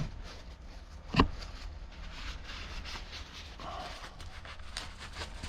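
Hands handling a string trimmer on a workbench: one sharp knock about a second in, then a run of light clicks, taps and scraping.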